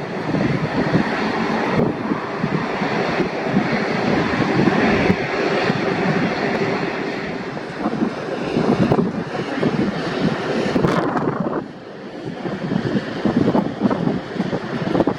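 Jet airliner engine noise mixed with heavy wind buffeting on the microphone, dipping briefly near the end before building again.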